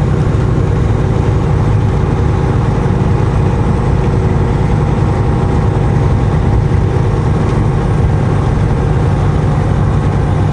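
Semi-truck diesel engine running steadily, heard from inside the cab while driving, a low even drone that holds throughout without revving up or down.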